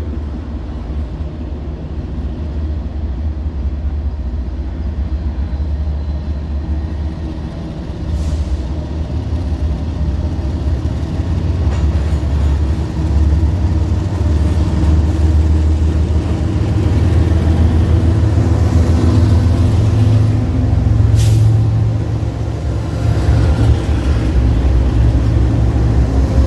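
Diesel freight train passing, its lead locomotives' engines running with a loud low drone that builds as they come closer. There are two brief high hisses, about eight seconds in and near the end.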